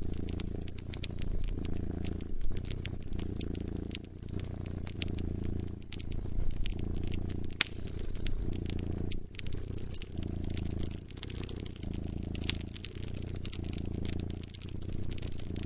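Domestic cat purring close up, the low purr swelling and easing with each breath every couple of seconds, over a wood fire crackling with frequent sharp pops.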